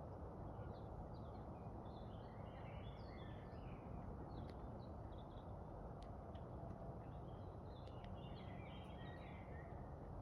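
Small birds twittering over a steady background rush outdoors: one run of quick chirping song about a second in and another near the end, with a few single chirps between.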